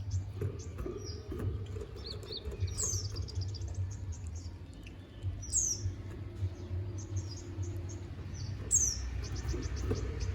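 Konin (kolibri ninja) sunbird singing a fast, high twittering song of rapid chirps and ticks, broken by three quick downward-sweeping whistles, over a steady low hum.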